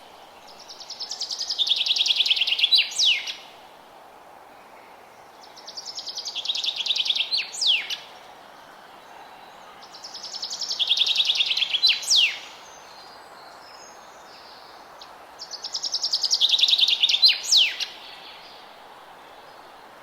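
A songbird singing the same song four times, about every five seconds. Each song is a rapid trill that swells in loudness for about two seconds and ends in a couple of sharp falling notes. A steady background hiss runs under it.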